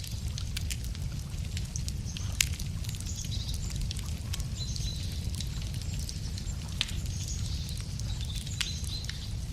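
Wood campfire crackling with irregular sharp pops, the loudest about two and a half seconds in, over a steady low rumble. Faint bird chirps behind it.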